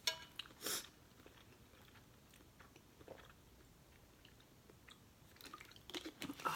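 Close-miked chewing while eating instant noodles: a few wet mouth clicks in the first second, a quiet stretch, then a run of chewing sounds near the end.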